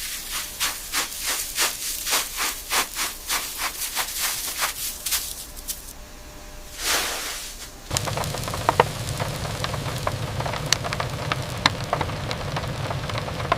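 Food preparation: rhythmic scraping strokes, about three a second, then a short whoosh. After that comes a steady sizzle with scattered crackles, like food frying in a hot pan.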